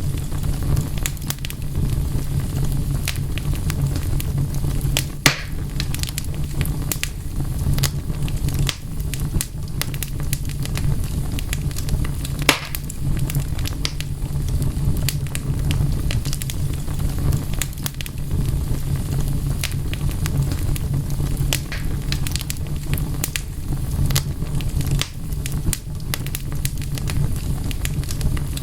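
Wood fire crackling: a steady low rumble of the flames under constant irregular snaps and pops, with two louder pops about five seconds and twelve seconds in.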